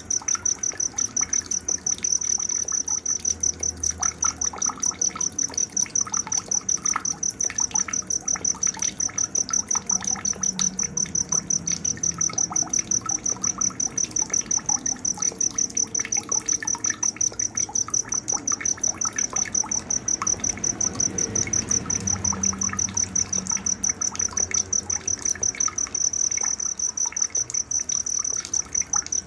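A cricket chirps continuously in a fast, even pulse on one high pitch. Scattered short bird chirps sound beneath it.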